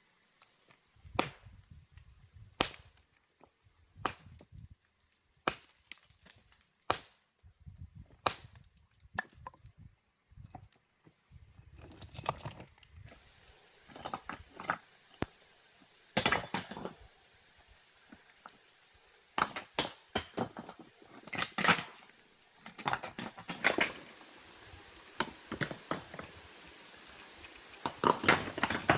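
A series of sharp knocks: single hits about every second and a half at first, then quicker clusters of strikes in the second half.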